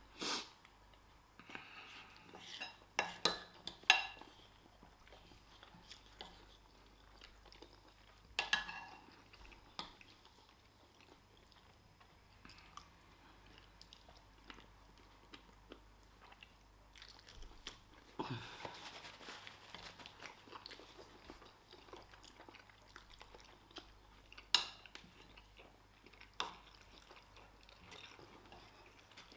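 People chewing and eating a meal of rice and stew with chicken and fried plantain, with occasional sharp clicks of cutlery against plates.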